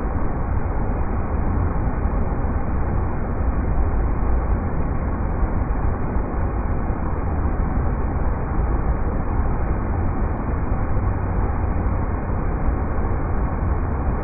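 River rapids: a steady, unbroken rush of water, deep and heavy at the bottom.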